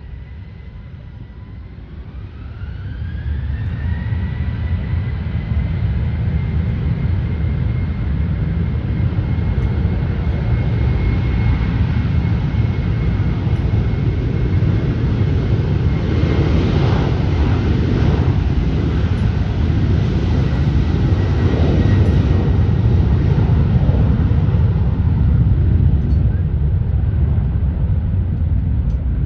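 Jet airliner engines spooling up: a whine rises in pitch about two seconds in and then holds steady, over a loud low rumble that stays at high power.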